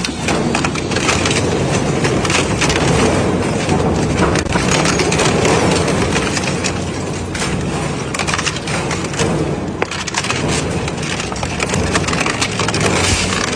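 Industrial shredder running under load, grinding and crunching material between its cutters with a steady low rumble and many sharp cracks and snaps.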